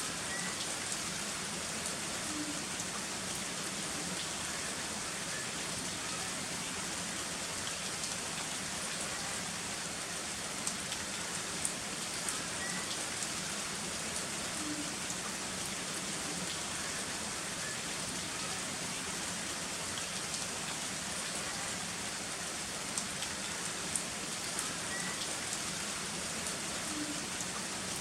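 Heavy rain falling steadily, with sharp taps of single drops scattered through it.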